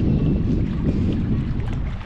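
Wind buffeting the microphone: a loud, gusting rumble.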